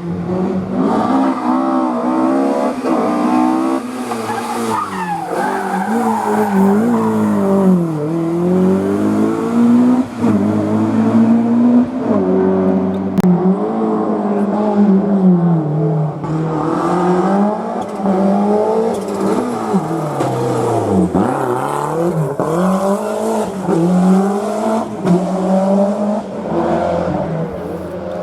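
Historic rally car engines at full effort through a hairpin. The revs climb in quick steps through the gears, then fall away in several deep dips as the cars brake and downshift for the bend.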